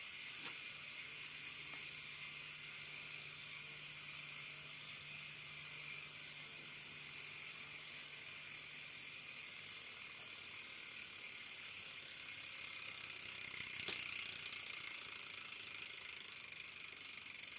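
Bicycle rear freehub spinning freely, its pawls ratcheting so fast the clicks merge into a steady high buzz, which swells louder for a few seconds past the middle.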